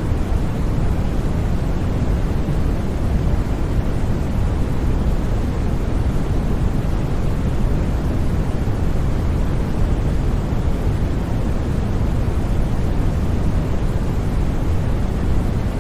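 Steady generated noise for sleep: an even, unbroken hiss with most of its weight in the low end, a deep rushing sound with no changes or sudden sounds.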